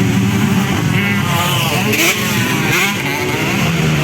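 250cc motocross motorcycles racing, their engines revving up and down as they accelerate and shift, with rising whines about a second in and again near three seconds.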